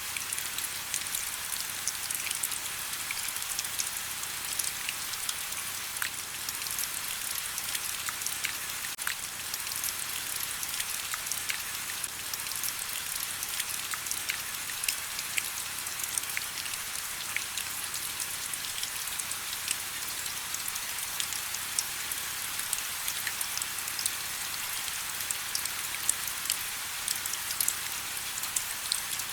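Steady rain: an even hiss with many distinct drops ticking at irregular moments close by.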